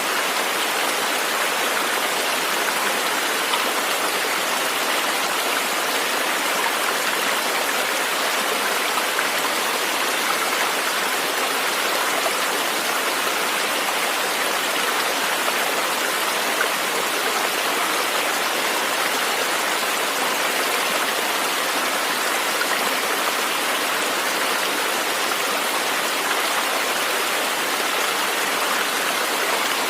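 River water flowing, a steady rushing that does not let up.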